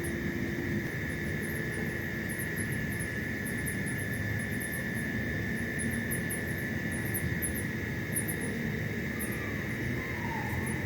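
Night insect chorus: many short, very high-pitched chirps over a continuous steady shrill drone, with a low steady rumble underneath.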